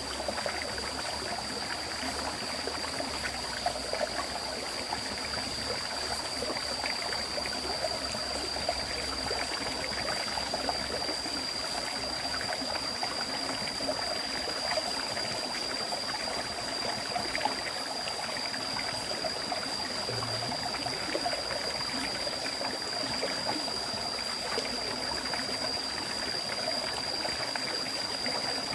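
River stream water flowing over rocks in a steady, continuous rush with small trickling splashes, with a steady high-pitched whine held over it.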